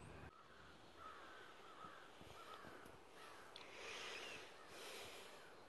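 Near silence, with faint bird calls in the distance: a few short chirps, then a couple of hoarser calls.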